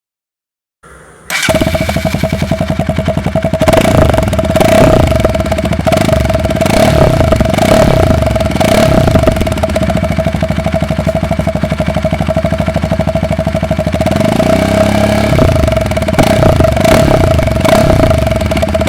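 Bajaj Pulsar NS 200 single-cylinder engine starting up about a second in and running through a home-modified exhaust, blipped up and down in several revs. It carries a steady tone throughout.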